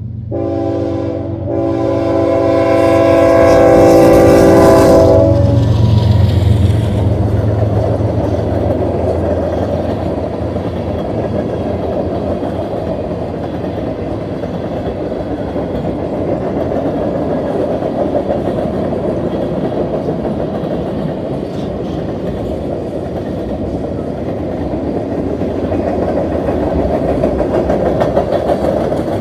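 A CN freight train's diesel locomotives, a GE ES44DC and an EMD SD75I, sound their horn chord for the grade crossing, with a brief break just after the start, before the blast ends about five seconds in as the engines pass with a deep rumble. A long string of freight cars then rolls by in a steady rush of steel wheels clattering over the rails, swelling again near the end.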